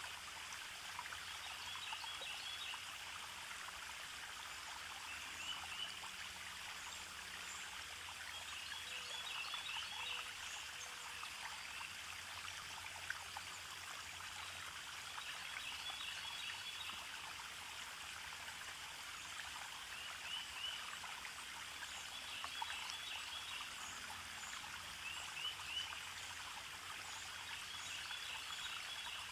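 Birds calling in short quick trills that recur every few seconds over a steady rushing hiss like running water.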